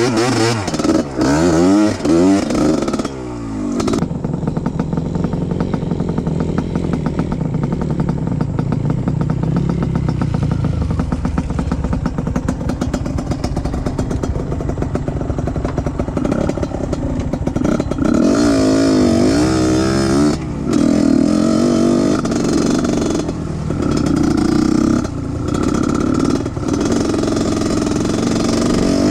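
Trail motorcycle engine being ridden off-road, the revs rising and falling several times near the start and again about two-thirds of the way through, with a steadier stretch in between.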